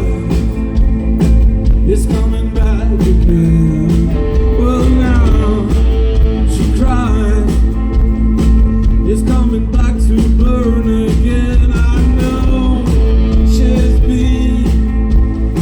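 Rock band playing a song with a singing voice over electric guitar, bass and a steady drum beat.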